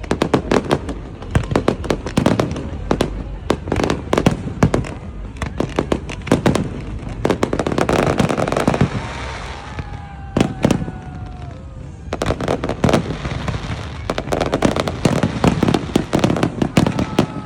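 Fireworks display: a rapid, continuous string of sharp bangs and crackles from exploding shells, coming in dense clusters, with voices underneath.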